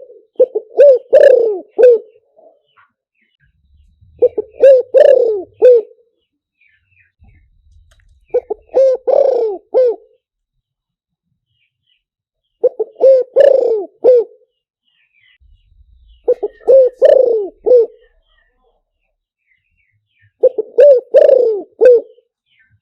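Spotted dove cooing: six phrases of several low coos each, every phrase about two seconds long, repeating about every four seconds.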